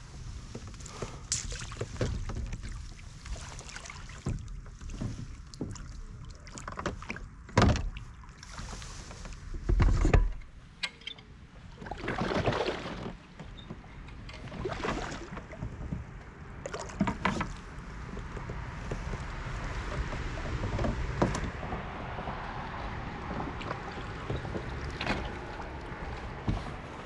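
Scattered knocks, thumps and rustling of fishing gear being handled aboard a kayak, with two heavier thumps about a third of the way in. A steady hiss builds through the second half.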